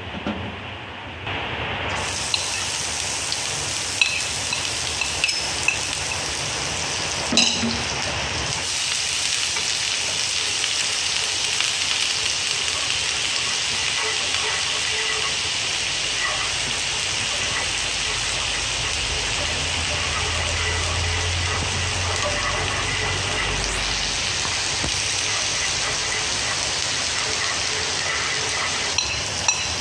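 Minced lemongrass sizzling in hot oil in a frying pan, a steady hiss that starts about two seconds in as it goes into the oil, while it is stirred. A few sharp clicks of utensils against the pan come early in the frying.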